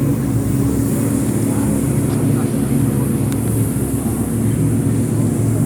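Stock car's V8 engine running steadily at low revs, a constant low rumble with no rise or fall in pitch.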